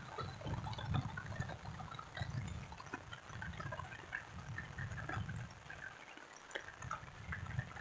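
Rain falling, with many scattered drops pattering and dripping, over an irregular low rumble that swells and fades about once a second.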